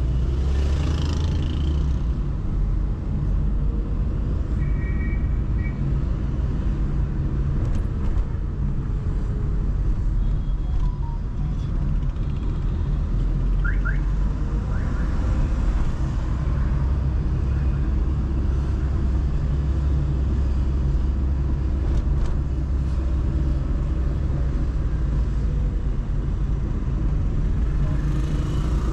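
Car driving through city traffic: steady low engine and road rumble, with a few faint short tones from the street about five seconds in.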